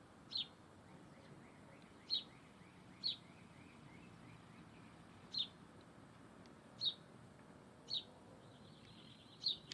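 A wild bird calling: seven short, sharp, high chirps at irregular intervals, over faint outdoor background noise. A fainter run of quick, softer notes sits behind them in the first few seconds, and a brief buzzy note comes near the end.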